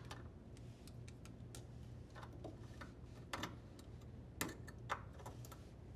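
Faint, irregular clicks and taps of plastic wire-harness connectors being handled and unplugged from a washer's drain pump and mode shifter, the loudest a little past the middle, over a low steady hum.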